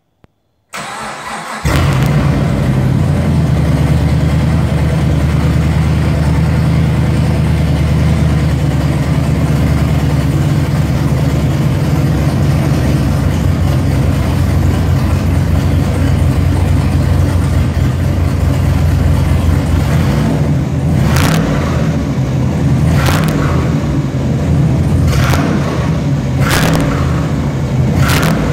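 Freshly built, cammed 416 cubic-inch forged stroker LS3 V8 in a 2012 Camaro, cranking briefly, catching about a second and a half in, then idling loud and steady on its first start-up, its exhaust dumping unmuffled out of a 3-inch downpipe with no exhaust system fitted. In the last several seconds five short, sharp noises stand out above the idle.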